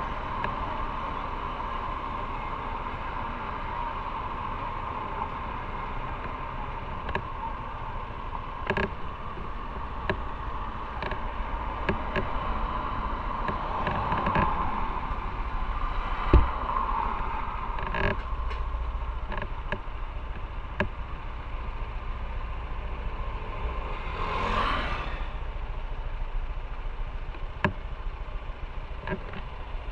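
Motorcycle on the road, heard from on board: steady wind and road noise with the engine underneath, and scattered clicks and knocks, one louder knock about 16 seconds in. A brief whoosh swells and fades about 25 seconds in.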